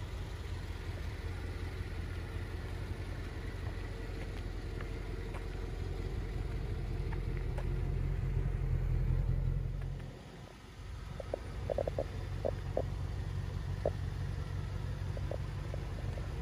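1993 Corvette's 5.7-litre LT1 V8 idling steadily, a low, even exhaust rumble that grows louder when heard from behind the car.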